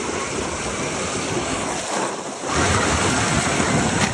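Traxxas X-Maxx RC truck stuck in a river, its wheels churning and splashing the water in a loud rush that swells about two and a half seconds in.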